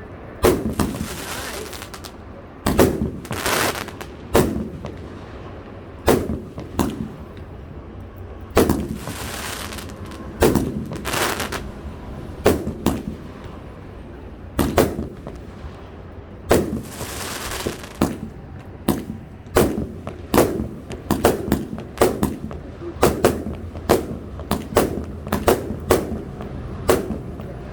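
A 259-shot firework cake firing: a run of sharp shots and bursts, several trailed by about a second of hissing crackle. The shots come faster, about two a second, in the last third.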